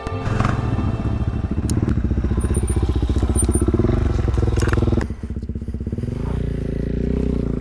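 Dual-sport motorcycle engine pulling under throttle on a dirt trail. Its revs drop sharply about five seconds in, then it runs more gently.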